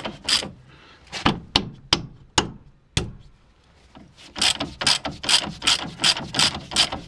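Ratchet wrench clicking as it tightens the nut of a steering tie rod end: a few clicks at the start, scattered single clicks, then an even run of about five clicks a second from about four seconds in.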